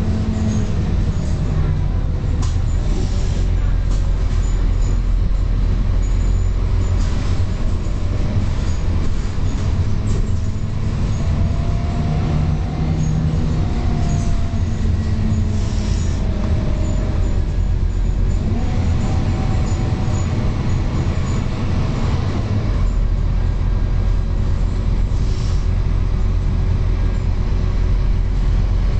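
Scania K230UB single-deck bus driving along, its rear-mounted diesel engine running with a steady low drone and a whine that rises and falls in pitch a few times as the bus changes speed.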